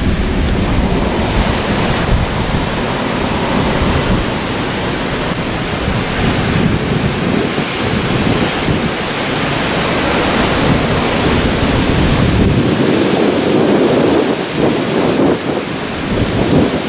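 Wind buffeting the microphone: a loud, continuous rumbling hiss that swells and eases in gusts.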